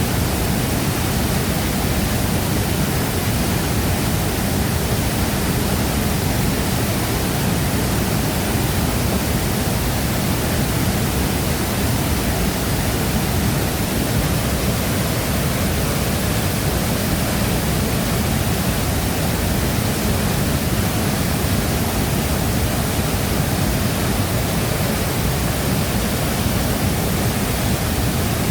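Large waterfall crashing steadily, a dense, unbroken rush of falling water with a deep low rumble underneath.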